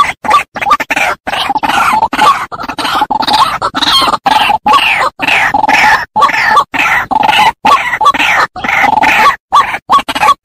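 White-breasted waterhen (ruak-ruak) calling: a fast run of harsh, repeated croaking notes, broken by brief silent gaps, as played for a lure call.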